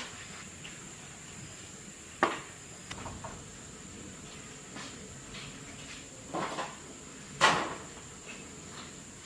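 A few scattered knocks and clatters of hard objects being handled or set down, the loudest about seven and a half seconds in, over a steady faint hiss.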